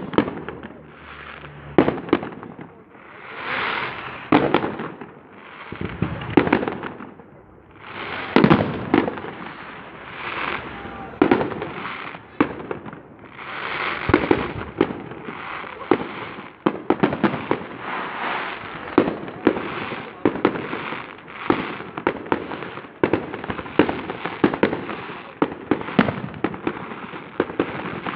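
Aerial fireworks display: a string of sharp bangs, with swells of crackling hiss rising and fading between them. The bangs come faster and closer together in the second half.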